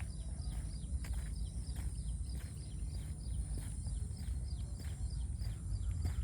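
A bird calling over and over in short, high, falling notes, about three a second, over a low rumble of wind on the microphone.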